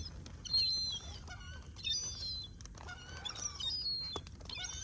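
Seagull chicks peeping: several short, thin, high-pitched whistled calls, each falling slightly in pitch, coming at irregular intervals.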